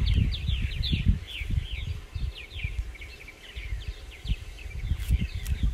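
Small birds chirping steadily, a rapid run of short, high, downward-sliding notes several times a second, over a low, uneven rumble.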